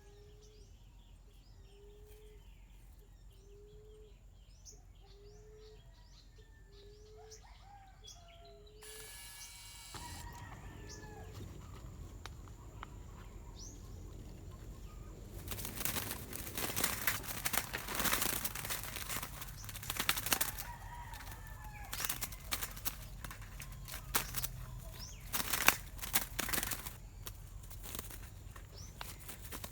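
A dove's wings flapping and fluttering in repeated bursts, as a bird struggles in a cage trap. The flapping grows louder in the second half. Before it, a row of soft, low dove coos repeats about once every second and a half.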